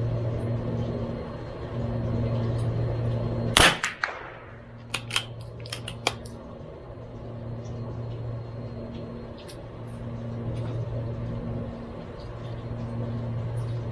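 A single .22LR rifle shot from a CZ 457 MTR bolt-action target rifle about three and a half seconds in, with a short ringing tail, followed a second or two later by several sharp clicks, typical of the bolt being worked to eject the case and chamber the next round. A steady low hum sits underneath throughout.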